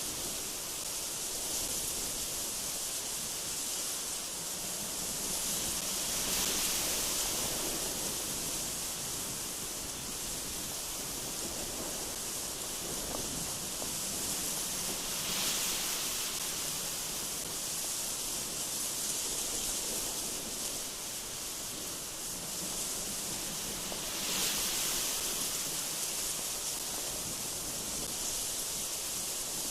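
Strong gusty wind sweeping through trees: a steady hiss that swells in gusts about every nine seconds.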